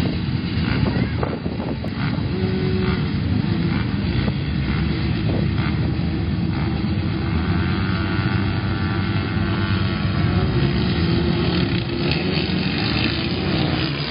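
Motocross dirt bike engines running in a continuous din, with one engine revving up and back down between about eight and ten seconds in.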